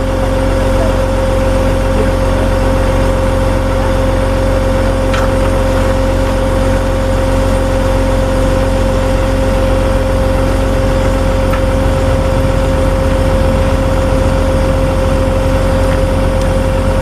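A truck engine running steadily, with a constant whine over a low rumble.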